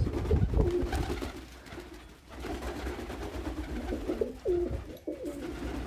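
Domestic pigeons cooing, low repeated coos, with a low rumble near the start.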